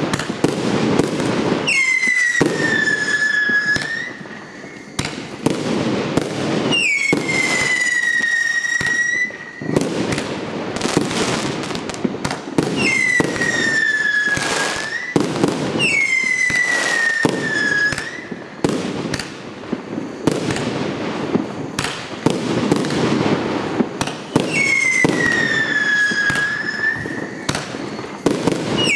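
PKU378 'Borodino' firework battery firing continuously: a dense run of pops and bangs from shots launching and bursting. Every few seconds a whistle sounds over them, falling slightly in pitch and lasting about two seconds.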